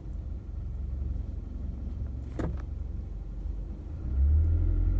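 Inside a moving car: steady low road and engine rumble, with a brief click about two and a half seconds in. The rumble grows louder near the end.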